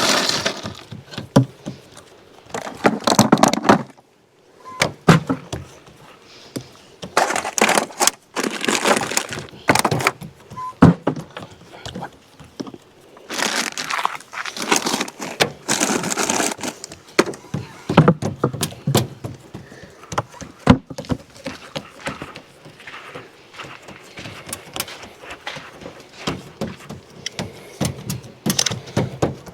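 Irregular knocks, thunks and clinks with stretches of rustling: things being handled and set down during food preparation.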